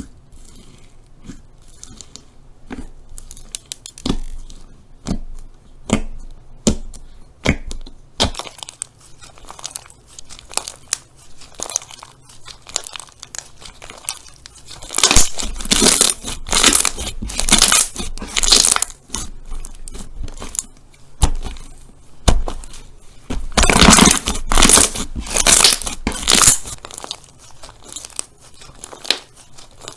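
Slime being pressed and worked by hand, crackling and popping. There are scattered sharp pops at first, then two stretches of dense, loud crackling in the middle and later on.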